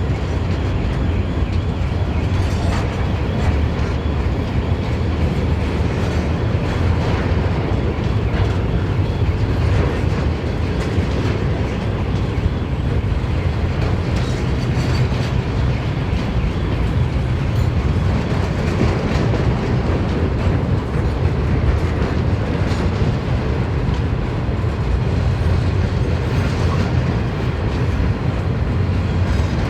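Train rolling steadily past at close range: a continuous heavy rumble of wagons with the clickety-clack of wheels over rail joints.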